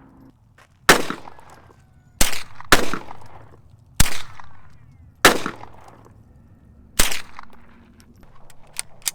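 Six gunshots from target shooting, fired singly at an uneven pace roughly a second or so apart, each trailing off in echo.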